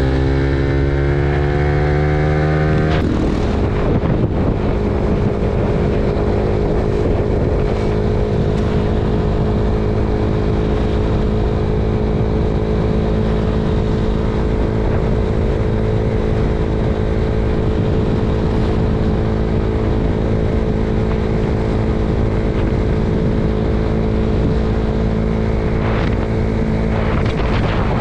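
Suzuki Raider R150 Fi's single-cylinder four-stroke engine running under way on an Aracer aftermarket ECU street tune. Its note rises for about three seconds, changes abruptly, then holds a steady pitch while cruising.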